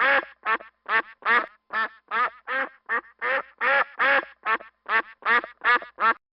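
Duck quacking over and over in a quick, even series of about two to three quacks a second, which cuts off abruptly near the end.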